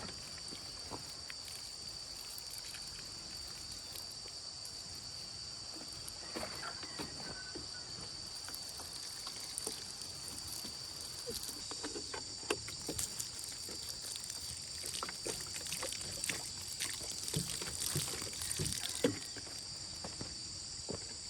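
Insects keeping up a steady high-pitched chorus. From about six seconds in, scattered light knocks and rustles from handling or work come and go, with a sharper knock near the end.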